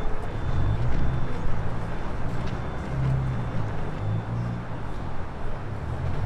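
Strong wind buffeting an unprotected microphone during a blizzard: an uneven, gusting low rumble over a steady rushing hiss.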